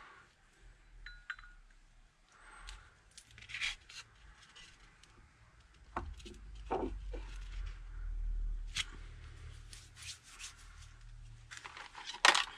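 Brake caliper parts being handled and fitted by hand during reassembly: scattered light clicks, small clinks and rubbing, with a sharper cluster of clicks near the end.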